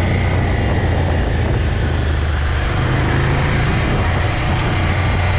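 Motorcycle engine running at a steady pace while riding, its low hum held at an even pitch under loud wind rush.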